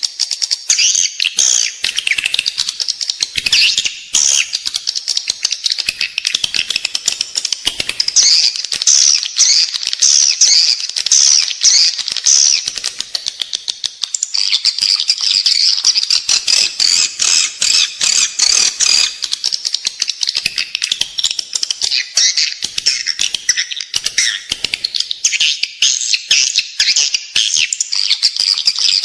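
Edible-nest swiftlets chirping and twittering in a dense, unbroken chorus, shot through with rapid clicks. It is a swiftlet call recording of the kind played inside a swiftlet house to lure the birds in to nest.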